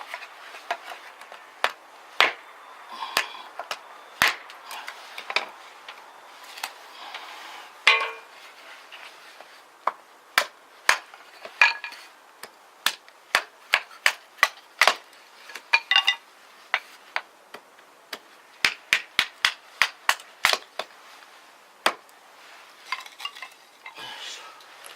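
A kitchen knife knocking on a cutting board in quick, irregular strokes, with a few scattered clinks of utensils. The strokes come thickest in the middle of the stretch.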